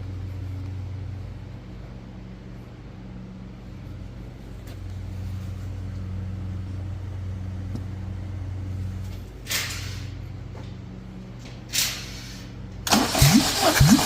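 A low steady hum with two short hisses, then near the end the starter cranks the Honda K24A 2.4L four-cylinder engine, loud and pulsing about two to three times a second as it turns over for a compression test.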